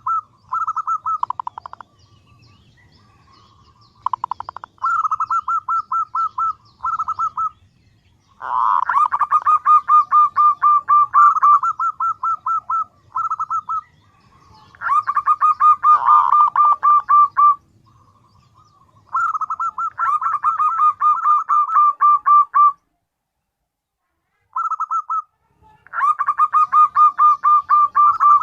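Female zebra dove (perkutut) calling to draw a male: about eight bouts of rapid, evenly repeated notes, some under a second and some several seconds long, with short pauses between them.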